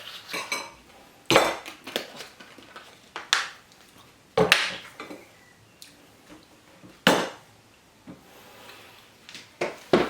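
Dishes, containers and utensils being handled and set down on a table: about six separate sharp clacks and clinks a second or more apart.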